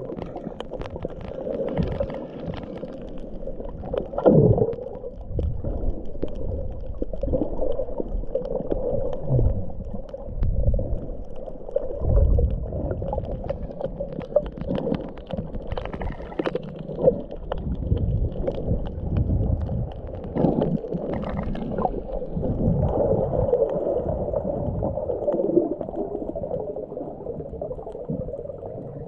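Muffled underwater sound from a camera filming below the surface: water sloshing and gurgling with bubbles and small clicks, rising and falling in swells.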